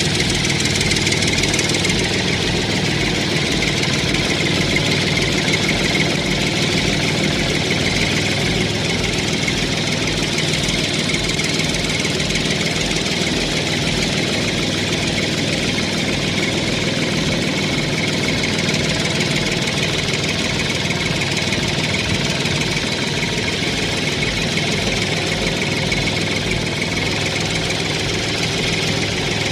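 Engine running steadily, with an even, regular low chugging beat like an idling tractor.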